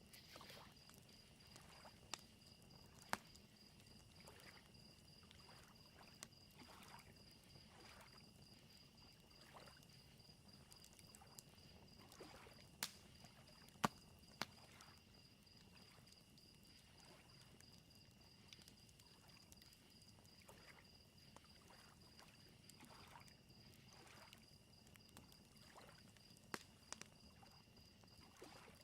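Faint lakeside nature bed: crickets chirping in a steady, evenly pulsing high trill, soft lake waves lapping, and a crackling campfire giving scattered sharp pops, the loudest about halfway through.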